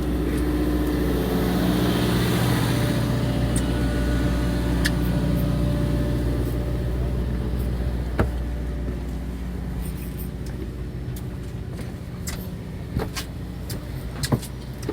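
Fishing boat's engine running with a steady low hum that slowly fades, with a few light knocks on board.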